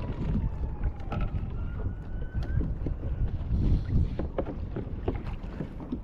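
Wind buffeting the microphone on a kayak at sea, with scattered knocks and clicks from gear and the hull. A faint thin tone slides down and then back up in the first couple of seconds.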